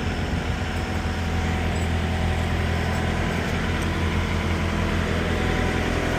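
Semi truck's diesel engine idling steadily with an even low hum.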